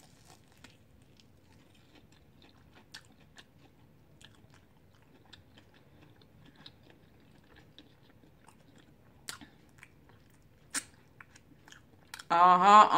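Someone biting and chewing a Flamin' Hot Cheetos-crusted chicken wing: faint, scattered crunches and small clicks from the crunchy coating. Near the end a loud voice comes in.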